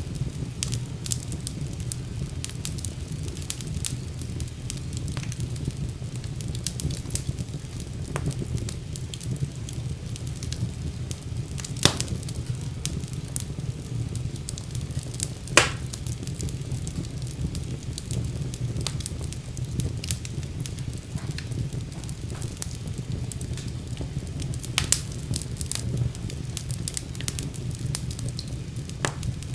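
Wood fire burning in a fireplace: a steady low rumble of flames with constant crackling and small snaps, and two louder sharp pops about twelve and fifteen seconds in.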